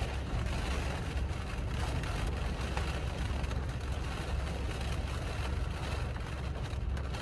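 Rain pattering steadily on a car's roof, heard from inside the car, over a steady low rumble.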